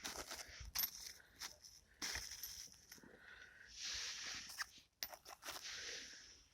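Irregular scraping and rustling swishes with short clicks and knocks scattered between them.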